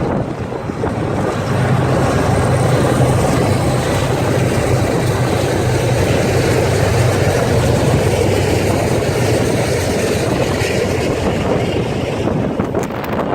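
BNSF freight train's diesel locomotives passing close by, their engines giving a steady low hum over loud rushing noise that falls away near the end. Wind buffets the microphone.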